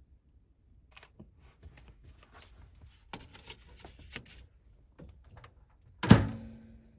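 Things being handled: scattered small clicks and rustles, then one loud clunk about six seconds in that rings briefly as it fades.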